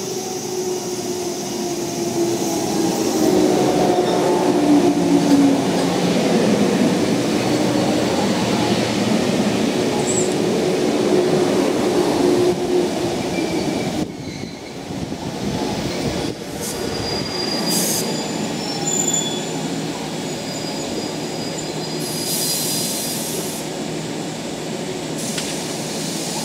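JR West 415 series electric train coupled with a 413 series set, rolling into a station and braking, with squealing tones sliding in pitch over the rumble of the wheels. About fourteen seconds in it comes to a stop and the sound drops to the steady hum of the standing train, with a few short hisses.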